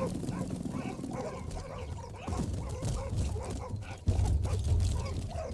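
A pack of African wild dogs calling in many short, quick yelps and chirps, with a low rumble starting about four seconds in.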